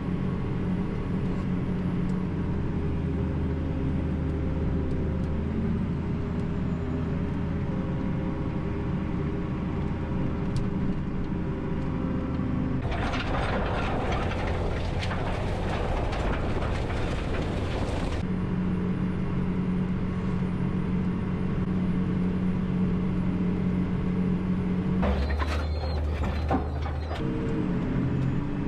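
Case IH STX 430 four-wheel-drive tractor's diesel engine running steadily, its pitch shifting a few times. About halfway through a loud rushing noise covers it for about five seconds, and a shorter rush comes near the end.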